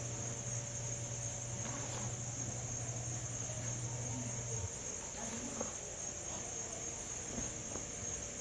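Crickets chirring steadily in a high, continuous drone at night. A low steady hum underneath stops about halfway through.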